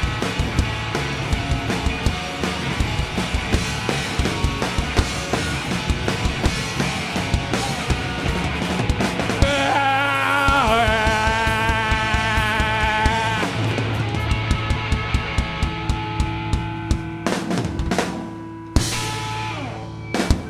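Live rock band playing an instrumental ending: a drum kit keeps a steady beat under held guitar lines, then the song closes with two loud final hits near the end that ring out.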